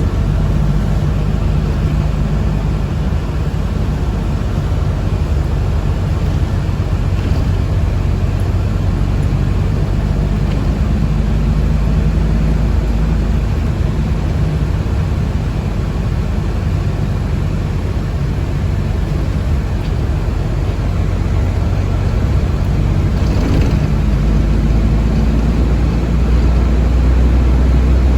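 Steady low rumble of a moving city bus heard from inside the passenger cabin: drive hum and road noise throughout.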